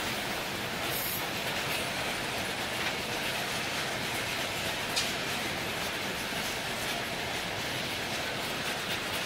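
Double-stack container wagons rolling past at close range: steady noise of steel wheels running on the rails, with one sharp click about five seconds in.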